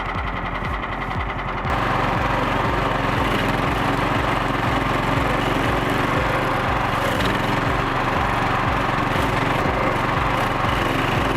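Music with a steady beat, then, about two seconds in, the 13.5 horsepower Briggs & Stratton engine of a compact stump grinder comes in, running steadily under load over the beat.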